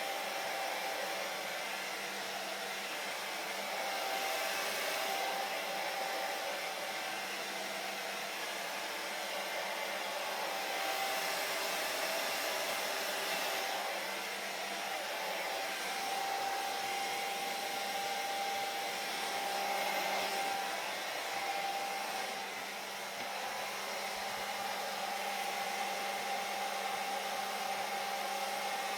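Hair dryer running continuously: a steady rush of air with a constant whine from the motor.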